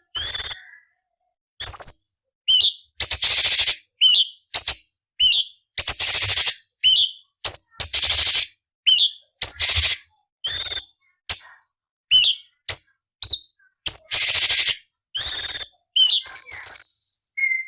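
Orange-bellied leafbird (cucak cungkok) singing: harsh rasping notes alternating with short, sharp down-curving whistles, about one note every half second.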